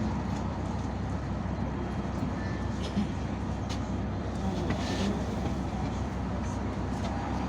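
Yutong ZK6128HG city bus under way, heard from inside the cabin: a steady engine and road rumble, with a couple of light clicks and rattles partway through.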